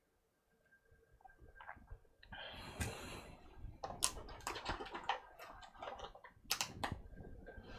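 Handling noise on a workbench: a brief rustle about two and a half seconds in, then a quick run of light clicks and clatter from small parts or tools being picked up and set down.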